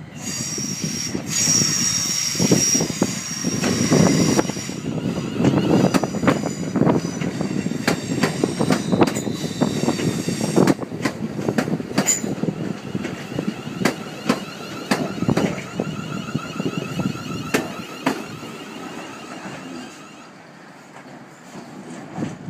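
British Rail Class 350 Desiro electric multiple unit passing close and running into the station: a low rumble with sharp clicks of the wheels over rail joints and points. A high squeal sounds in the first few seconds and a steady whine midway, and the sound fades near the end as the train slows for the platform.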